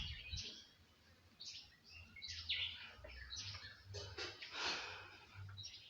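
Small birds chirping and calling repeatedly in short, high notes, over a low rumble.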